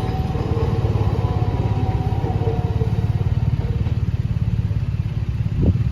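A motor vehicle's engine idling with a steady, fast low throb. A few faint steady tones fade out in the first half, and a short rising sound comes near the end.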